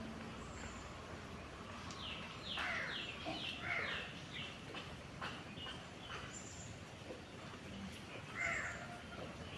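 Birds calling: a quick run of short falling chirps from about two seconds in, mixed with a few harsher calls, and one more harsh call near the end, over steady background noise.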